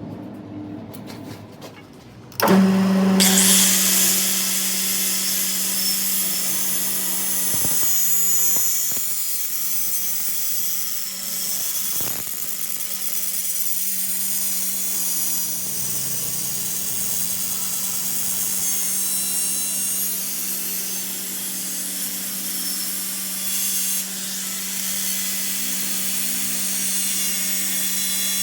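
A power tool starts up about two and a half seconds in and runs steadily, with a steady hum under a dense, high hiss.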